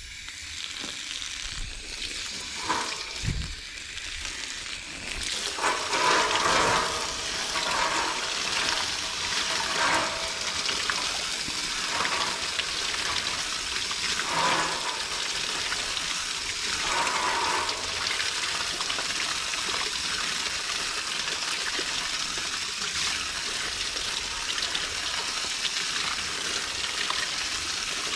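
Water spraying from a garden hose nozzle onto an air conditioner's coils: a steady hiss of spray that gets louder about five seconds in and shifts as the stream moves over the unit, then holds even.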